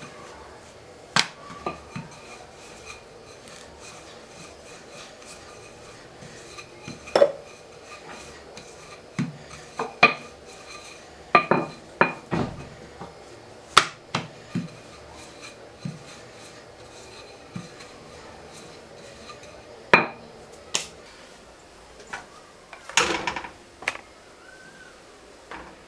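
Kitchen utensils and dishes clinking and knocking at irregular intervals, sharp separate strikes, some with a short ring, and a brief scraping rustle near the end.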